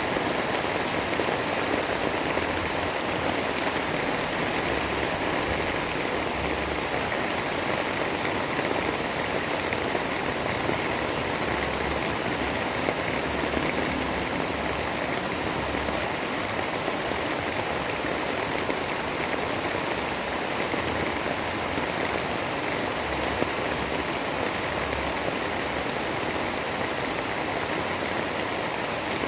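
Steady heavy rain, an even rushing hiss with a few faint drop ticks and no change in level.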